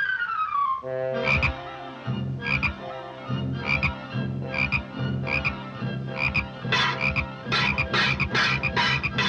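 Cartoon soundtrack: a falling slide in pitch, then about a second in a run of repeated short pulses over a steady low drone. The pulses come more closely together near the end.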